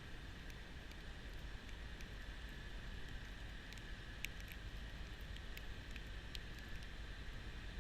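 Kubota B2650 compact tractor with a front-mount snowblower running steadily, with a few sharp ticks in the middle.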